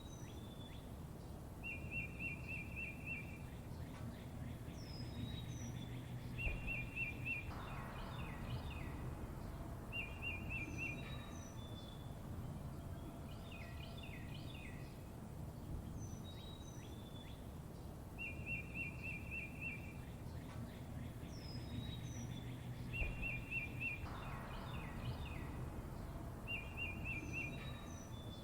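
Songbirds chirping: short rapid trills, quick whistled notes and chirps from several birds over a low steady background rumble. The same sequence of calls comes round again about every 16 seconds.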